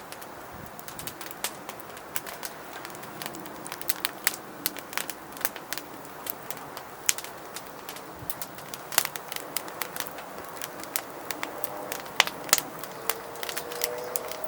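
Wood fire crackling and popping in a fire stand, with irregular sharp snaps. A dove coos faintly near the end.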